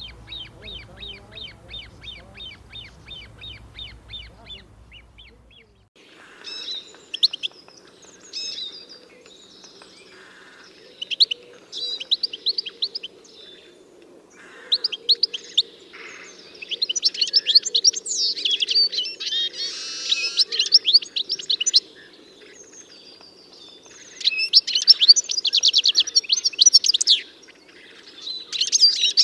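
Birds chirping and singing. First comes a rapid, even series of high notes at about four a second. After an abrupt change about six seconds in, a busy mix of chirps and trills follows, loudest in bursts near the end.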